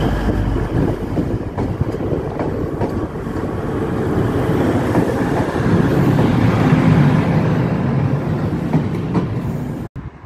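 Passenger train passing close by: a steady rumble of wheels on rail with scattered clicks over the rail joints, swelling louder past the middle, then cut off suddenly near the end.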